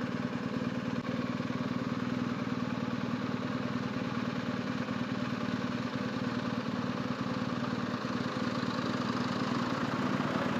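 BMW R1250GS motorcycle's boxer-twin engine idling steadily.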